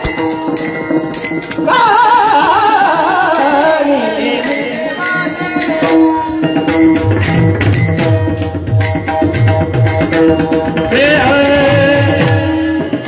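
Devotional kirtan music: a high singing voice holds and slides down through an ornamented phrase about two seconds in and starts a new phrase near the end, over steady drum strokes and sharp cymbal-like clicks.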